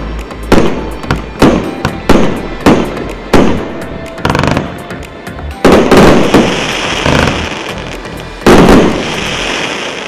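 Super Salut 'Noble Platinum' 1.25-inch firework battery firing: a quick run of sharp bangs about two a second, then a few heavier bursts spaced further apart. Each of the later bursts trails off in a crackling hiss of sparks that fades near the end.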